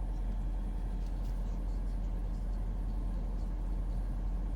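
Steady low rumble of the Mercedes E63 AMG's 5.5-litre bi-turbo V8 idling, heard from inside the cabin.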